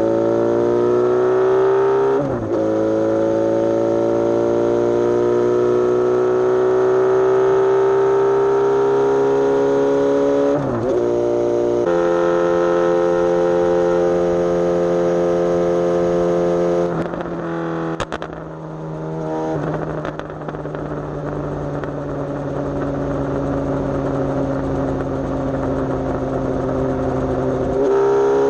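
Suzuki GSX-S750's inline-four engine under way. It pulls with a slowly rising pitch, broken by upshifts about 2 and 11 seconds in, then holds a steady cruise. The throttle eases off about two-thirds through, and it settles into a steady cruise again.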